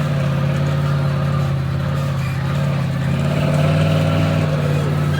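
Vehicle engine running at a steady speed, a deep even drone that grows slightly louder about three and a half seconds in.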